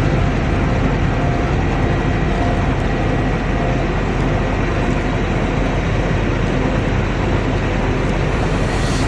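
Combine harvester running steadily: a low engine drone under a dense, even mechanical noise.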